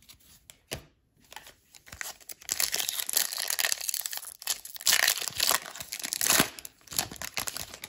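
The wrapper of an Upper Deck Series One hockey card pack crinkling and tearing as it is opened, several seconds of rustling with louder surges.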